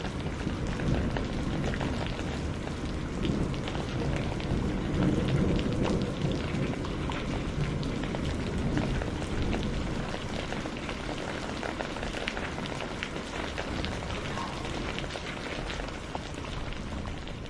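Steady rain falling, with many small drops pattering, and a low rumble of distant thunder swelling in the middle. The whole fades out near the end.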